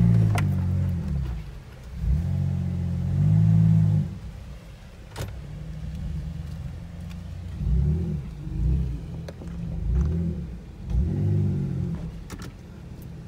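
Jeep Wrangler JK's V6 engine revving in repeated bursts, heard from inside the cab: two long revs in the first four seconds, then shorter blips, as it maneuvers over rough trail ground. A sharp knock comes about five seconds in.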